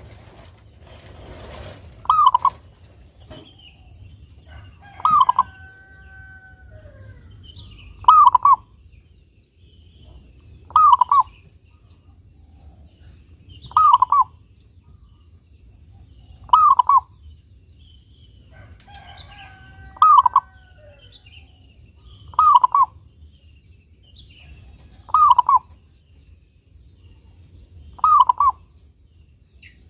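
Zebra dove (perkutut) cooing, repeating its short song phrase about every three seconds, about ten times. Faint chirps from other small birds come in between, and a longer drawn-out call from another bird sounds twice.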